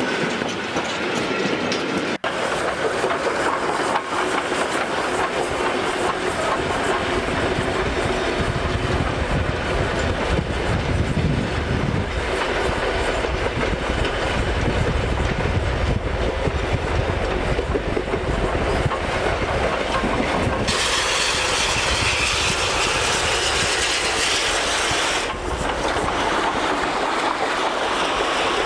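A train running on the rails, a dense continuous rumble and rattle. It changes abruptly about two seconds in, and again about twenty and twenty-five seconds in.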